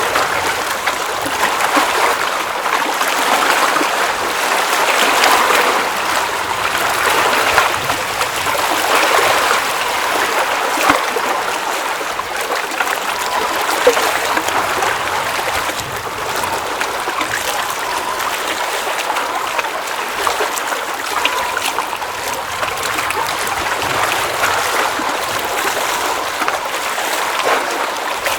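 Water at the edge of a mountain lake trickling and splashing in a steady babble, with small splashes and drips scattered through it.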